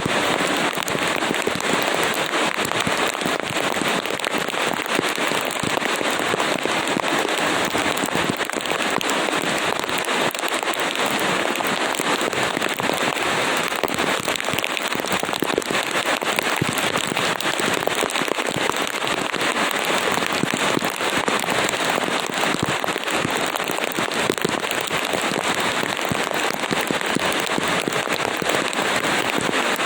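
Steady rain, a dense, even patter of many drop hits with no pauses.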